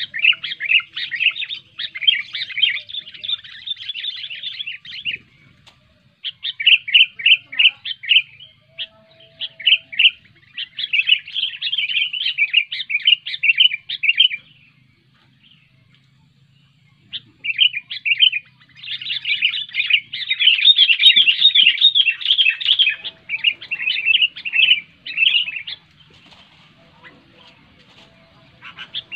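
Sooty-headed bulbul (kutilang) singing loud, clear song in rapid runs of chirping notes, in bursts of several seconds with short pauses between them, fading to faint near the end.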